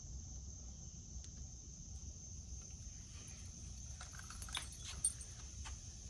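Quiet background with a steady faint high-pitched insect chirr and a low rumble, broken by a few light clicks about four to five seconds in.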